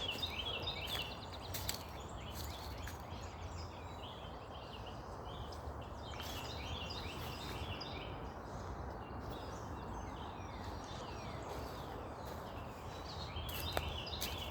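Songbirds singing in woodland: bouts of quick repeated high chirps come and go, loudest in short clusters near the start, about halfway, and near the end, over a steady low rumble.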